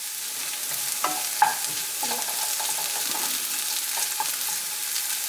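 Cubed potatoes and red onions frying in olive oil in a nonstick pan: a steady sizzle, with a few light clicks and scrapes of a wooden spoon stirring them.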